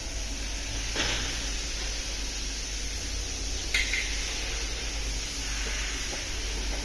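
Steady background hiss, with a short knock about a second in and a sharper metallic-sounding clink near four seconds.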